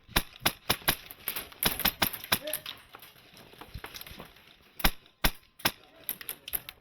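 HPA-powered airsoft M4 rifle firing single shots in quick, uneven strings, a dozen or so sharp snaps in the first couple of seconds, then a short pause, then more shots to the end.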